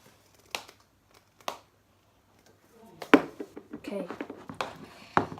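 A few short, sharp taps and clicks from slime being stirred in a cup, with a louder click about three seconds in.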